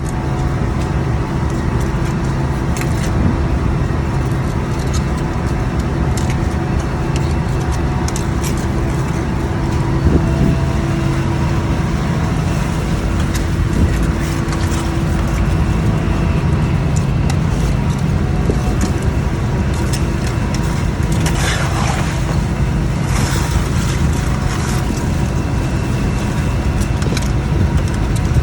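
Scallop boat's engine running steadily, with a constant low drone and scattered clanks and rattles, a few louder ones near the end.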